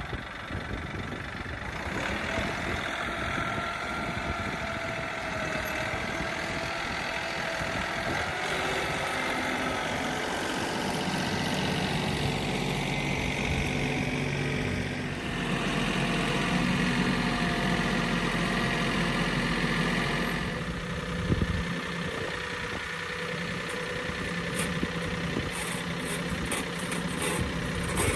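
Tractor engine running steadily, its speed changing a few times, with a single knock about two-thirds of the way in.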